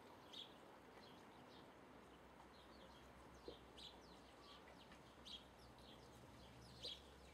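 Faint outdoor birdsong: many short, high chirps from small birds scattered throughout, four of them a little louder than the rest, over a faint background hiss.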